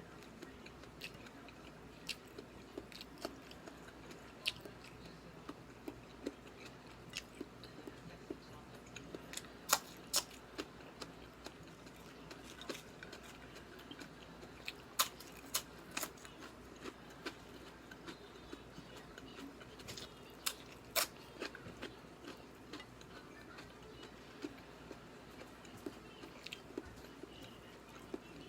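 A person eating close to the microphone: chewing with many short, sharp clicks, irregular at roughly one to two a second. The loudest come in pairs about ten, fifteen and twenty seconds in.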